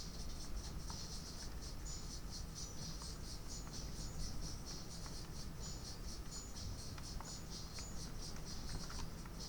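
Insects chirring outdoors in a dense, steady pulsing drone, with short high whistled notes above it. Underneath is a low steady rumble and a few faint ticks of dripping rain.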